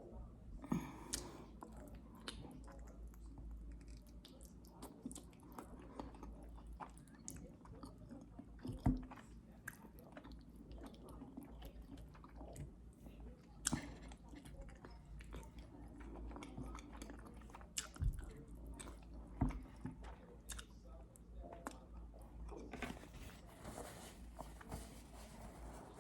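Close-up eating sounds: chewing with lip smacks and clicks, and a few louder knocks of utensils or dishes.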